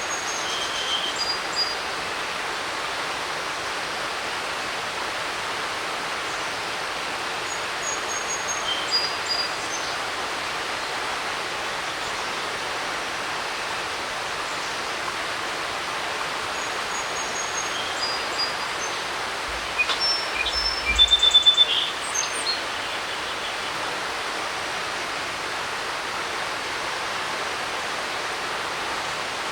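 Creek rushing in a steady hiss, with a songbird singing short whistled phrases every several seconds. The loudest phrase, about twenty seconds in, comes with a brief low rumble.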